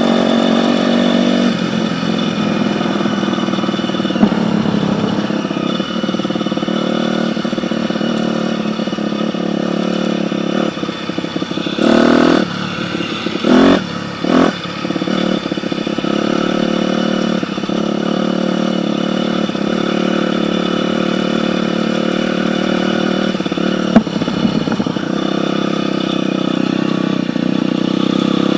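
Dirt bike engine running steadily, with a few short louder bursts about halfway through and an occasional sharp knock.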